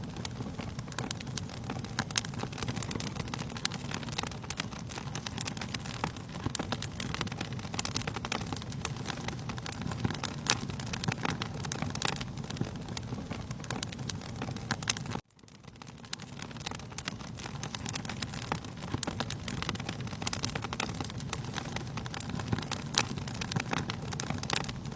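Wood fire crackling in a fireplace: a steady low rumble of flames with frequent sharp, irregular pops and snaps. The sound cuts out abruptly about fifteen seconds in and fades back up.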